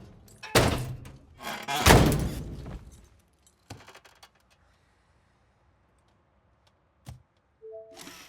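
Two loud, heavy thuds, about half a second and two seconds in, the second dying away over about a second. A fainter knock follows, then a sharp click near the end.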